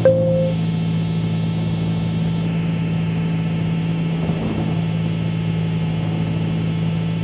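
Cockpit drone of a 1974 Cessna 310Q's two piston engines and propellers running steadily at pattern power, a low even hum at two pitches under a hiss. A short click with a brief tone sounds at the very start.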